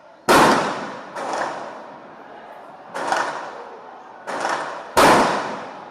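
A series of sharp bangs, five in about five seconds, each dying away over about half a second to a second. The first and the last are the loudest.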